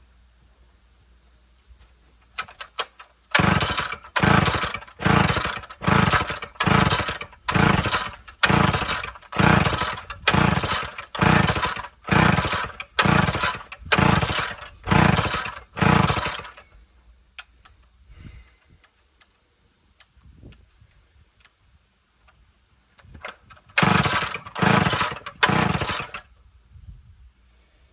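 Homelite XL chainsaw being pull-started: a long run of quick, even pulls on the starter cord, about one and a half a second, then a pause and a few more pulls, the engine turning over each time without catching. The owner takes it to be badly flooded.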